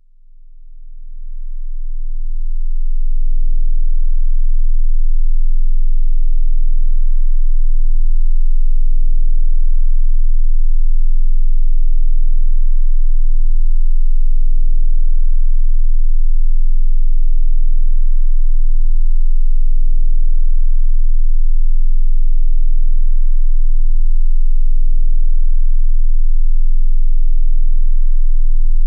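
20 Hz sine test tone for checking a sound system's deep-bass reproduction: a loud, very low steady tone that swells in over the first few seconds, then holds unchanged.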